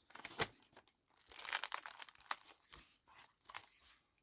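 Paper pages of a handmade junk journal being turned and handled: irregular rustling and crinkling, loudest for about a second from just over a second in, with smaller crackles after.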